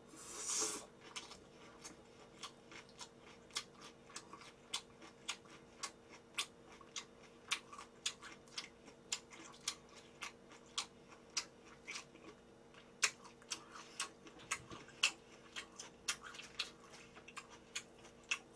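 Close-miked chewing of a mouthful of food: wet mouth clicks and smacks, a few a second, after a short noisy burst as the mouthful goes in at the start. A faint steady hum runs underneath.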